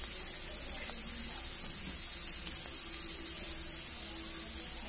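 Diced meat and garlic sizzling steadily in oil in a wok.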